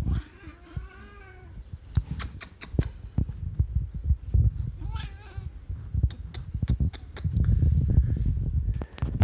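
Domestic cat making two drawn-out, wavering calls. One starts right at the beginning and lasts about a second and a half; the other comes about five seconds in. Low rumbling and knocking noise runs underneath.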